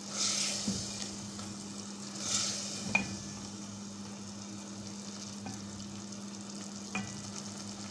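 Chicken and onion-tomato masala sizzling in oil in a steel pot while being stirred with a silicone spatula, fried down so its water cooks off. There are two swishing strokes early on and a couple of sharp taps of the spatula against the pot, over a steady low hum.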